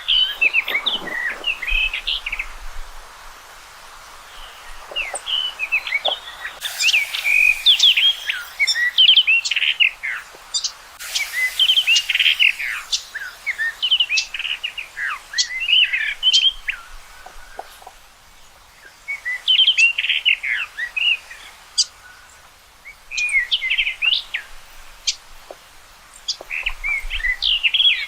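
Common rock thrush singing: phrases of quick warbled notes a few seconds long, separated by short pauses.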